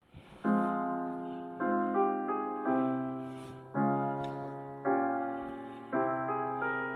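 Slow, gentle piano music: soft chords struck about once a second, each left ringing and fading before the next.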